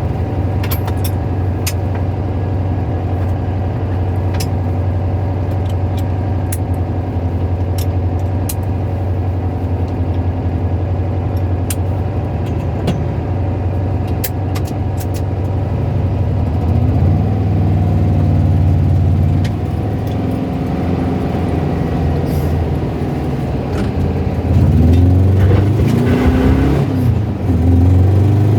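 Car engine idling with a rattling, tapping noise at low revs, with scattered sharp clicks. It is revved up briefly a little past halfway and again twice near the end.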